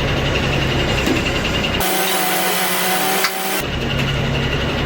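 Heavy machinery engine running steadily. About two seconds in, the low rumble drops out abruptly for nearly two seconds, replaced by a thinner noise with a steady whine, then returns.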